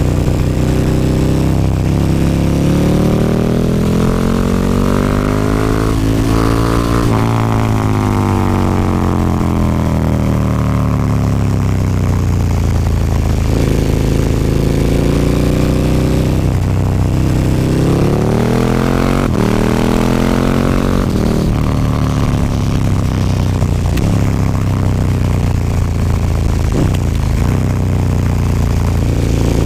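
KTM 1290 Super Duke R's V-twin engine through an Akrapovic slip-on exhaust, riding along. The engine note climbs under throttle, drops sharply and winds down, then climbs and drops sharply again about two-thirds through, with further rises and falls after that.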